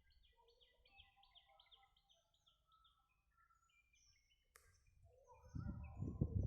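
Birds chirping faintly, one repeating a quick series of short falling notes about four times a second for the first few seconds. A single sharp click comes about four and a half seconds in, and a louder low rumbling noise starts near the end.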